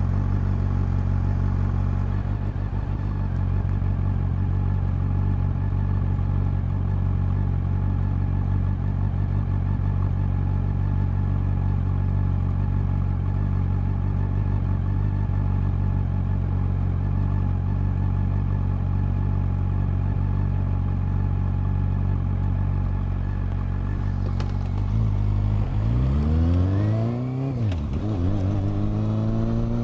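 Honda CB400 Super Four's inline-four engine and exhaust idling steadily, then revving up as the bike pulls away, its pitch climbing, dropping briefly about three-quarters of the way through and climbing again.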